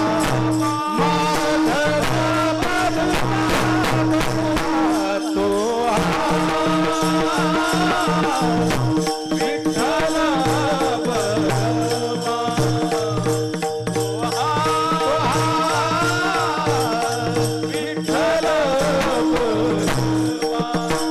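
Marathi devotional kirtan music: a gliding vocal melody over a steady held drone, with hand cymbals jingling in an even rhythm and a drum pattern underneath.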